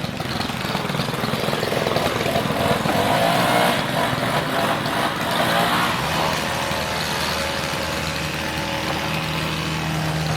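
An engine running, its pitch rising and falling in the first half, then settling into a steady hum.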